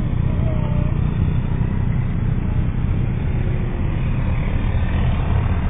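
Steady low rumble of a vehicle travelling on the road, engine and road noise without a break.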